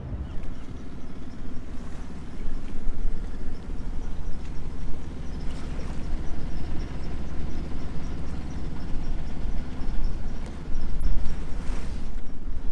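Sailboat's inboard engine running steadily under way, with wind buffeting the microphone; the wind noise grows louder near the end.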